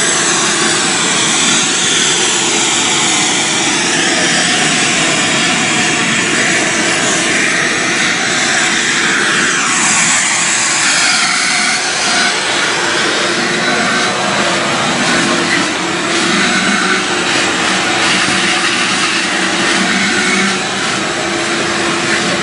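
Shop vacuum running steadily, sucking up dirt and debris, its pitch shifting now and then.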